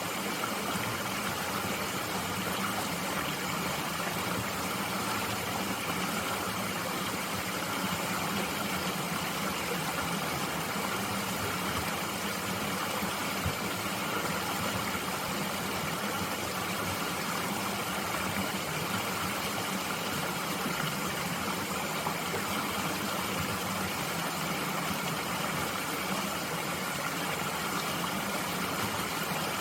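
Mountain stream flowing steadily over rocks, a constant even rush of water.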